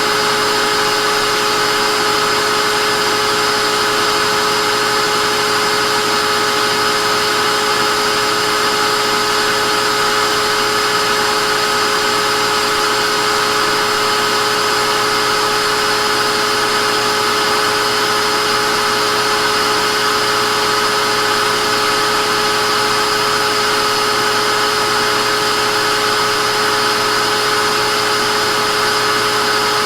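Vacuum cleaner motor running continuously at a constant speed: a steady, loud whooshing hiss with a fixed whine on top and no change in pitch or level.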